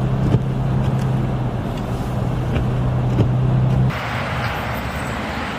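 A motor vehicle's engine running with a steady low hum over a rushing noise. About four seconds in it cuts off abruptly to a brighter hiss, like wind noise.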